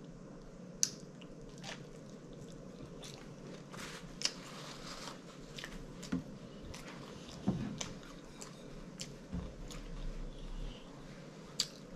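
Close-miked chewing of a mouthful of catfish sandwich, with many short wet mouth clicks scattered through and a few sharper ones.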